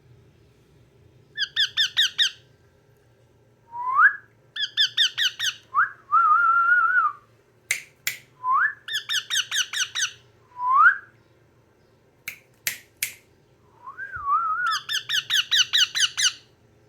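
Yellow ringneck parrot calling: four bursts of rapid, repeated sharp screeching notes, with short rising whistles and a warbling note between them, and a few sharp clicks.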